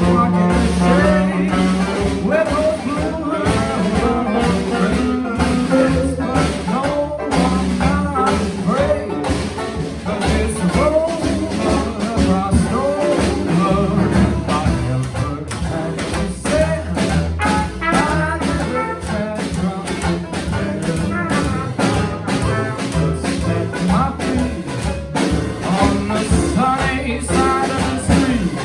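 A live jazz band playing, with a melody line over bass and drums.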